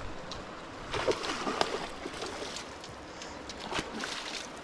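Creek water running steadily, with a few short splashes about a second in and again near the end.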